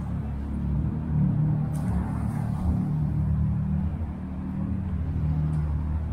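A motor vehicle's engine running close by in street traffic: a low, steady rumble with a hum that shifts slightly in pitch.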